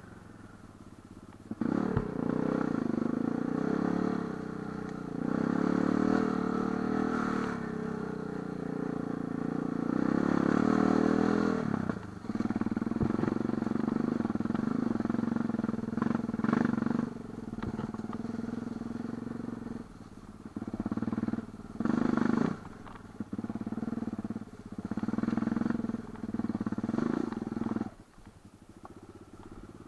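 Light enduro motorcycle engine running under changing throttle. It picks up about a second and a half in, holds a steadier note through the middle, then comes in a run of short throttle surges before falling back near the end.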